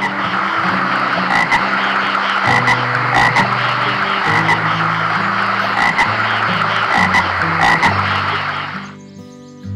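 A dense, loud chorus of animal calls with many short repeated pulses, which stops suddenly about nine seconds in. Background music plays underneath.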